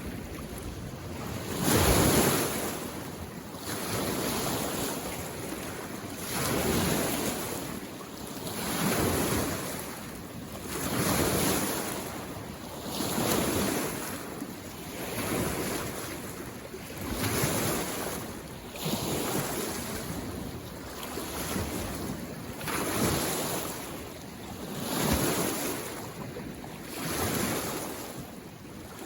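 Small waves on a mountain lake washing in on the shore, one about every two seconds. Each wave swells and fades, and the strongest comes about two seconds in.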